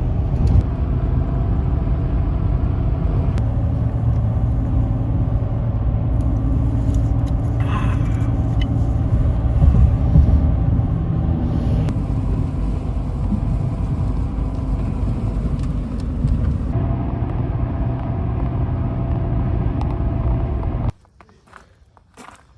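Road noise inside a car at highway speed: a steady low rumble of engine and tyres. It cuts off abruptly about 21 seconds in, leaving much quieter sound with a few faint clicks.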